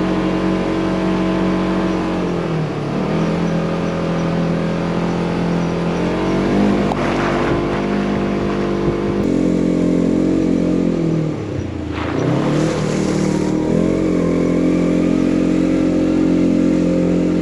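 2024 Polaris General XP 1000 UTV engine running at steady revs under way. The revs dip and climb back a couple of times, most deeply about twelve seconds in.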